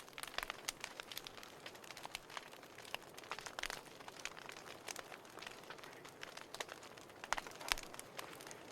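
Burning firewood crackling: a soft steady hiss with many irregular small pops and snaps, and a few louder pops around the middle and near the end.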